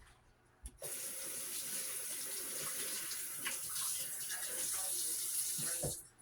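Kitchen sink faucet running in a steady stream, turned on about a second in and shut off abruptly near the end, with a few faint knocks in the sink as it runs.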